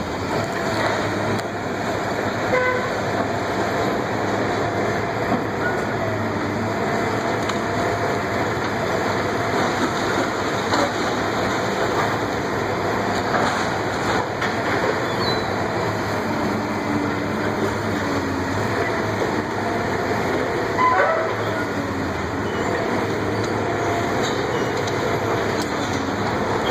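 Heavy demolition machinery working on a building, a steady dense mechanical noise with brief squeals now and then.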